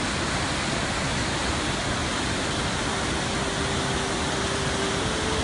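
Steady rushing of a waterfall, an even roar of falling water. A faint steady hum joins about three seconds in and steps up a little in pitch near the end.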